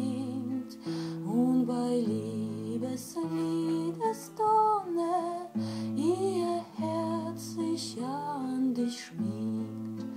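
Music: a woman singing a slow Russian romance in German, with vibrato on the held notes, over a soft plucked guitar accompaniment with sustained chords and bass notes.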